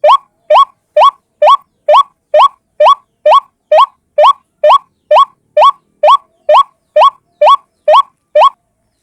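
White-breasted waterhen (ruak-ruak) calling: a steady series of short upward-sliding notes, about two a second, stopping shortly before the end.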